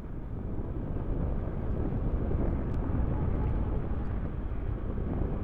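Wind buffeting the microphone, with road and tyre noise, as an Ola S1 Pro electric scooter rides along. The noise is steady and low, growing a little louder after about a second.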